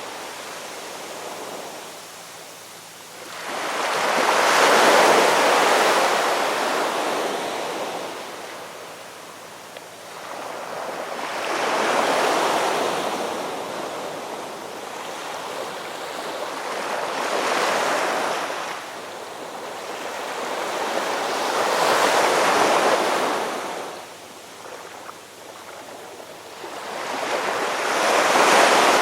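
Ocean waves washing onto a shore. Each wave swells and then falls back, about one every five or six seconds, five in all.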